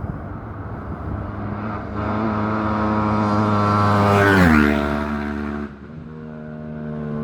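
An Isle of Man TT racing motorcycle at full throttle, approaching and passing at speed. It grows louder to a peak about four and a half seconds in, its pitch drops sharply as it goes by, and it fades within a second. After it, another engine can be heard further off.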